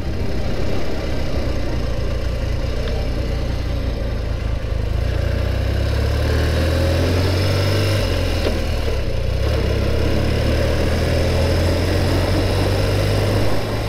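1981 BMW R65's 650 cc air-cooled boxer twin running steadily as the motorcycle is ridden, with wind noise over it. The engine's low drone grows stronger about five seconds in.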